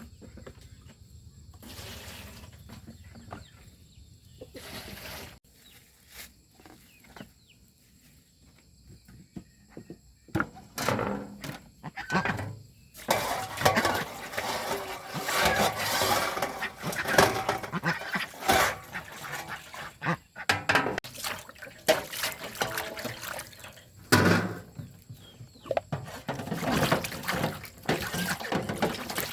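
Water running and splashing at a tap or sink, loud and irregular from about ten seconds in, mixed with scattered knocks and clatter.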